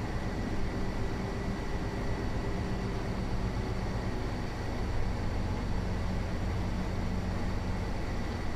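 City bus in motion, heard from inside: a steady drone of engine and road noise, with a thin steady high tone above it.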